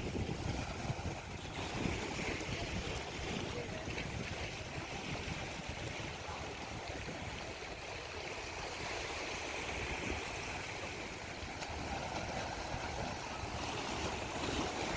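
Wind buffeting the microphone, with steady sea surf behind it.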